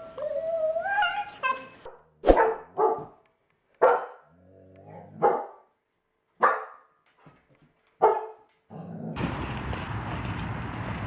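A dog barking: a short rising whine at the start, then about six sharp single barks roughly a second apart. A steady rushing noise takes over near the end.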